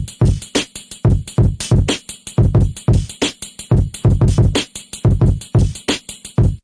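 Hip-hop drum machine beat looping steadily, with deep kick thumps, snare hits and crisp hi-hat ticks from a Maschine+ / SP-404 setup. It cuts off abruptly at the end.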